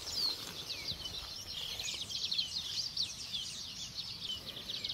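Birds chirping: a dense, unbroken run of quick, high, falling chirps, several calls overlapping.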